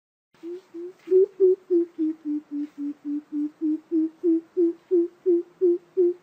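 Coucal (bìm bịp) giving its deep hooting call: a long, even series of low hoots at about three and a half a second. It starts softly about a third of a second in, then goes louder, and the pitch dips slightly in the middle before rising again.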